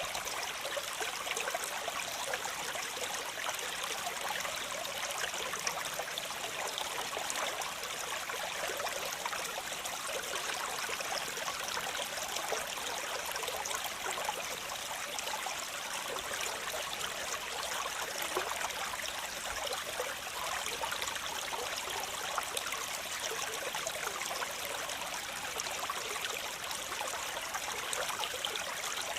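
Waterfall: a steady, even rush of falling water, mostly a bright hiss with little low rumble.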